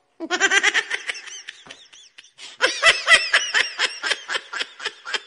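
High-pitched laughter in quick, rapid pulses, in two fits: a short one at the start and a longer one from about two and a half seconds in.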